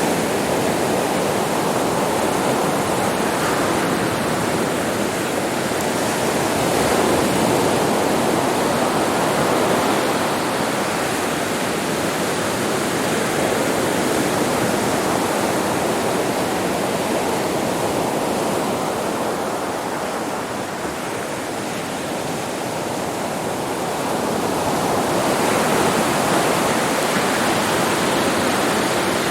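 Ocean surf washing on a beach: a continuous rush of breaking waves that swells and eases slowly, fading a little past the middle and building again near the end.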